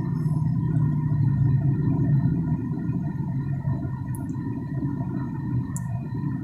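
Steady low rumble of wind and road noise picked up while riding a BMX bike, with a faint steady high whine and two brief high ticks about four and six seconds in.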